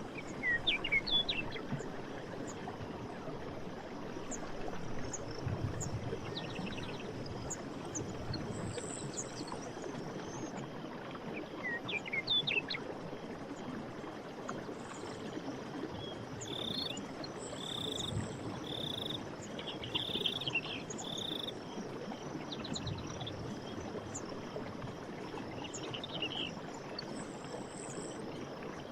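Forest stream, a steady rush of running water, with birds calling over it: quick gliding chirps about a second in and again near twelve seconds, and a run of short repeated notes in the second half, along with a few brief buzzy trills.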